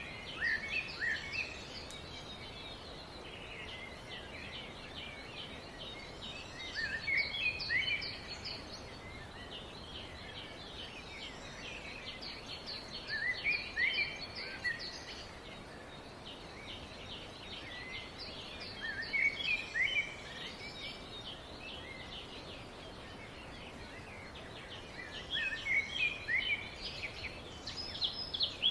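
Birds chirping: a burst of quick, high chirps comes about every six seconds over steady fainter twittering.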